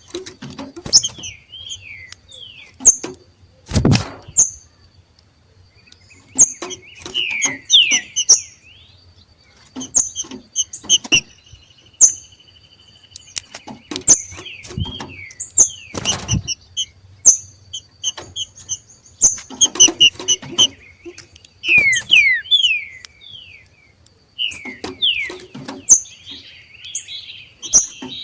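Green-winged saltators (trinca-ferro) giving their 'macheado': bursts of rapid clicky chatter and sharp falling chirps, the excited call these birds make when coming into breeding condition. Twice a loud thump cuts in, about 4 s in and again near the middle.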